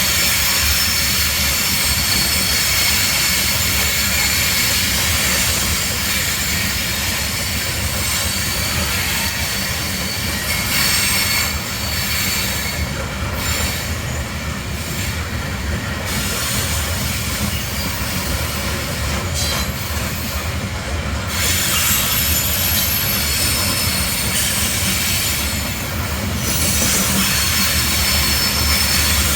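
Slow-moving freight train rolling past, its steel wheels squealing against the rails in steady high tones over a low rumble. The squeal fades briefly a few times.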